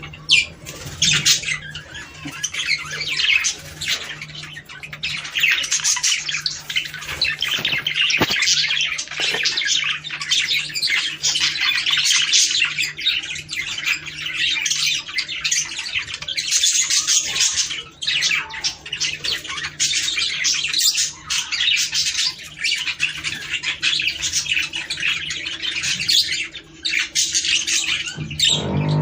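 Budgerigars chattering and warbling without a break, many overlapping squawks and chirps.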